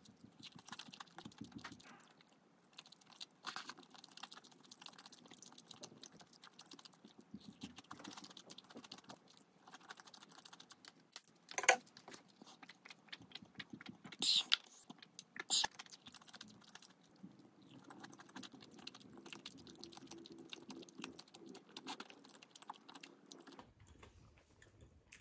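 Quiet eating sounds: a person chewing, with a steady scatter of small clicks and taps. Three louder sharp clicks come near the middle.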